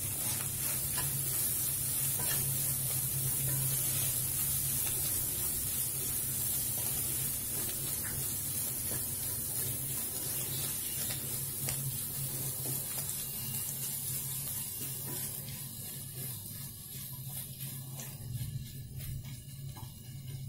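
Paneer stuffing sizzling in a non-stick kadhai over a medium flame while a spatula stirs and scrapes it around the pan, with a low steady hum underneath. The sizzle dies down over the last few seconds.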